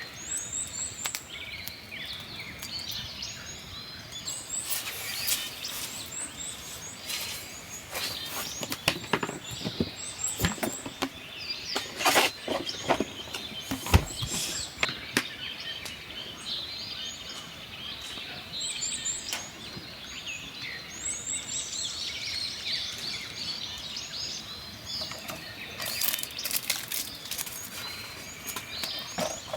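Small birds chirping, short high calls repeated throughout. Scattered sharp clicks and snaps come in clusters through the middle and again near the end.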